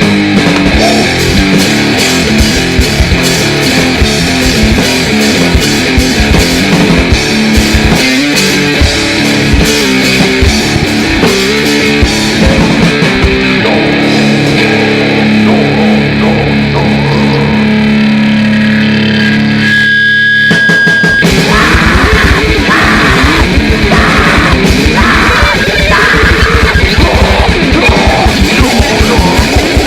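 Live grindnoise band playing: heavily distorted electric guitar and drums. About two-thirds through, the playing breaks for a moment under a single high steady tone, then fast, even drumming kicks back in with the guitar.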